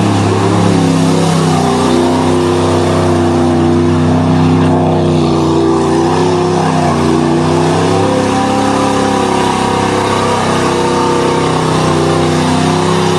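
1988 Chevrolet pickup's 305 V8 engine running hard at high revs while the truck spins through mud, the pitch wavering up and down and dipping several times.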